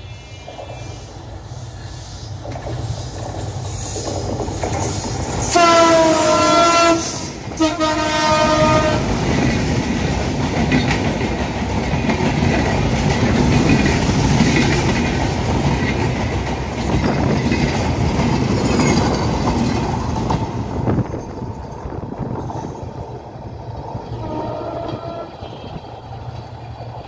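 Bangladesh Railway diesel locomotive approaching at speed and sounding its air horn in two long blasts. The coaches then rush past close by with loud wheel-on-rail clatter and rumble, which fades as the train draws away, and a shorter, fainter horn blast comes near the end.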